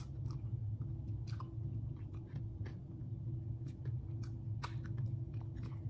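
Close mouth sounds of people chewing mocha mille-crêpe cake: scattered soft clicks and smacks over a steady low hum.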